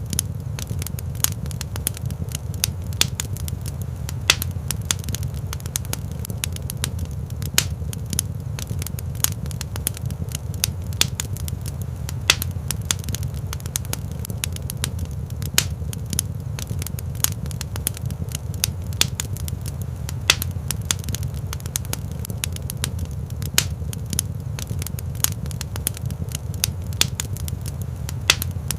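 Fire burning in a fireplace, a steady low rumble of flames with constant irregular crackles and sharp pops, a few of them louder than the rest.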